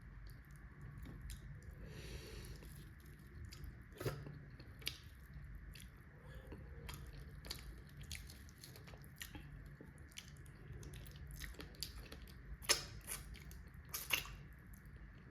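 Close-up chewing sounds of a person eating rice and fish, with many small wet mouth clicks and smacks. Two louder smacks come near the end.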